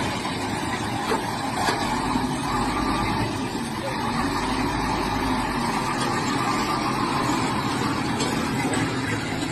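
A motor vehicle running with steady engine and road noise; a low rumble swells for a few seconds in the middle, and there are a few light clicks early on.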